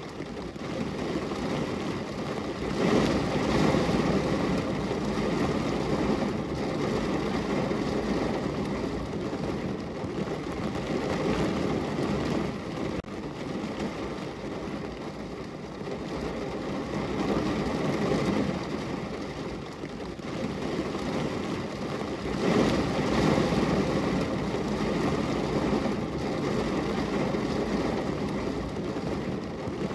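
Steady rain falling on a window, an even hiss that swells louder twice, about three seconds in and again about twenty-two seconds in.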